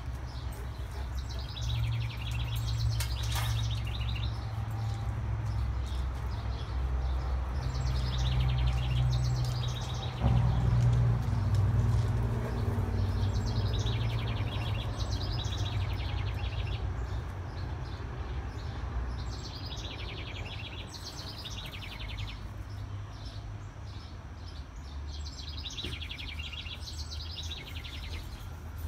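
A songbird repeats the same short, high chirping phrase about every six seconds, over a steady low rumble that swells for a moment about ten seconds in.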